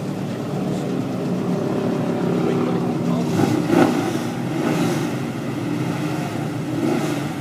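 Vehicle engine running at a steady pitch with road noise, swelling louder for a moment a little past the middle.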